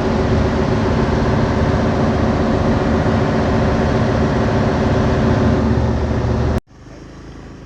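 Passenger ferry's engine running steadily with a low, even hum, cut off abruptly near the end and followed by much quieter background noise.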